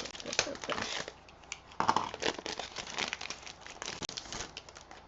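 Packaging crinkling and rustling in irregular crackles as kit pieces are handled and unwrapped.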